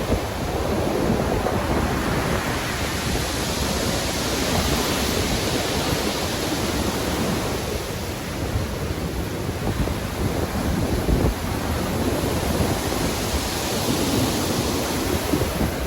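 Rough sea waves surging and breaking in a continuous rushing wash over a low rumble; the hiss swells and eases twice, building a few seconds in and again near the end.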